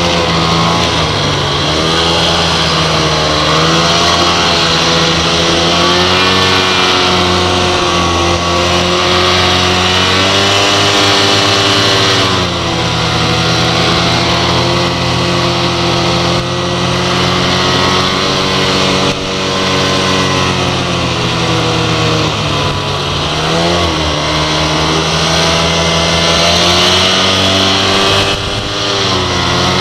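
Two-stroke 800 E-TEC snowmobile engine running hard, its pitch rising and falling with the throttle, with brief drops in revs several times.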